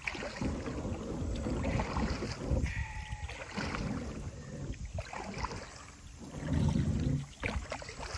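Kayak hull scraping and grinding over rocks in shallow water, with paddle strokes and splashing in uneven bursts as the boat is pushed along while grounded. The loudest push comes near the end.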